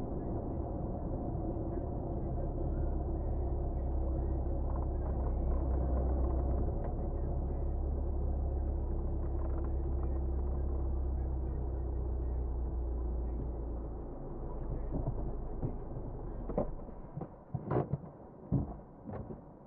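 A car engine runs steadily with a low rumble, then stops about sixteen seconds in. A few sharp clicks and knocks follow.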